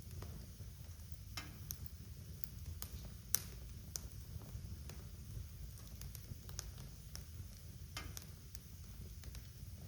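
Wood fire burning in a fireplace: a low steady rumble of flames with scattered sharp crackles and pops, the loudest pop about three seconds in.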